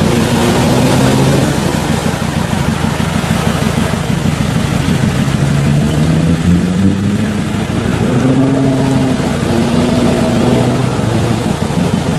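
An off-road 4x4's engine running under changing throttle. Its pitch climbs around the middle, holds, then eases back near the end.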